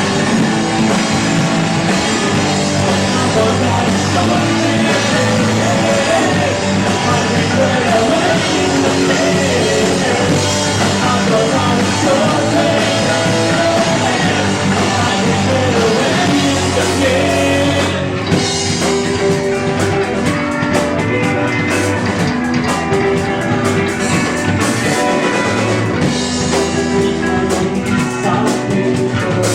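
Rock band playing live. About two-thirds of the way through the sound thins out and the drum hits stand out more.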